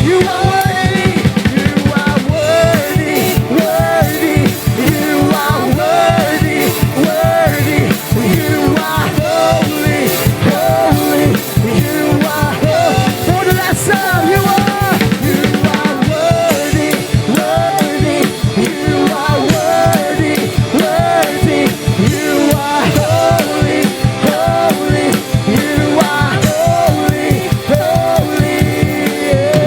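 A band plays an instrumental passage, a busy drum-kit beat under a repeating melody line.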